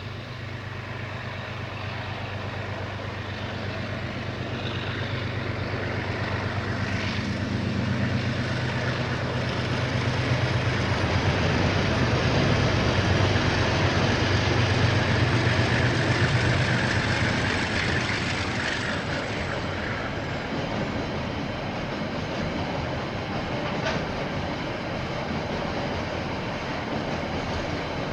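KiwiRail train passing: a diesel locomotive's engine grows louder as it approaches and goes by, loudest a little under halfway through. Then the wagons roll past with a steady clatter.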